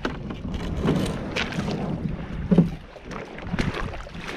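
Kayak paddling on a river: irregular paddle strokes splashing in the water over a steady rumble of wind on the microphone.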